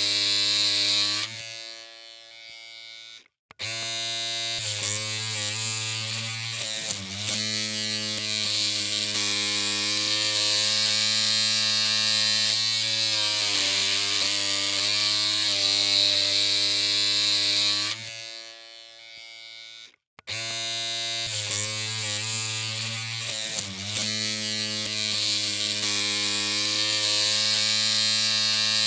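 Electric hair clippers humming with a steady low buzz. The hum cuts out twice for about two seconds and then starts again.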